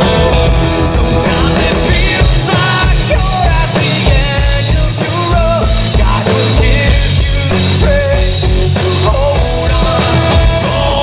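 Rock band playing live, with a drum kit beating a regular low kick-drum pulse under the melody.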